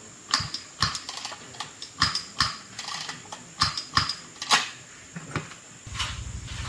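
A string of sharp, irregular clicks and knocks. About six seconds in, a small motorbike engine starts running with a steady low putter.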